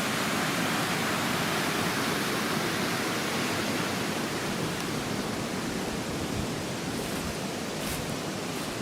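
River water rushing past, a steady hiss of flowing current.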